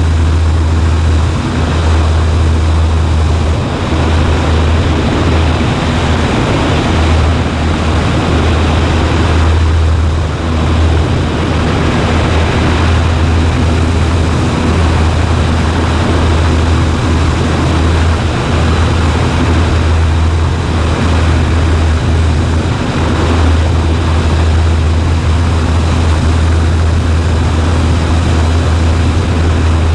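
Cessna 140A's four-cylinder Continental engine and propeller running at a steady power setting, a continuous low drone with wind and airframe noise above it.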